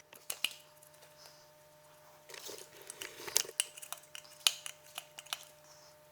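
Scattered light clicks and clinks of hand tools and small metal parts being handled during gearbox work, with a brief rustle around the middle.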